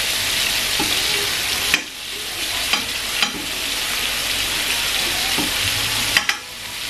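Floured prawns sizzling steadily as they fry in oil in a non-stick frying pan, with a few sharp clicks of metal tongs against the pan as the prawns are turned.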